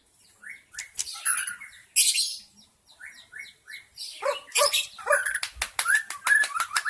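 White-rumped shama (murai batu) singing in the wild: varied phrases of short sliding whistled notes, a harsh rasping note about two seconds in, then a fast run of clipped notes and clicks in the second half.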